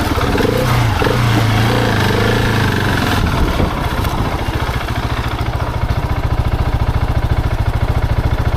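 Husqvarna 701's single-cylinder engine running under the rider, its pitch shifting for the first few seconds, then settling into a steady, even low-rev chug from about four seconds in.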